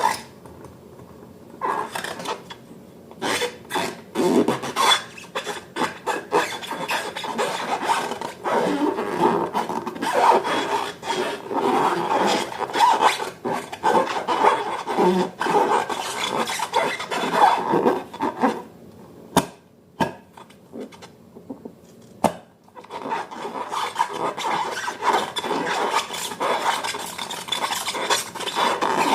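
Slime being stirred and worked by hand in a container: a continuous run of rubbing and scraping with small clicks, which stops for a few seconds a little past halfway and then starts again.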